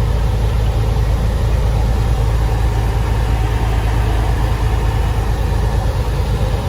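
Vehicle engine running with a steady, loud low rumble.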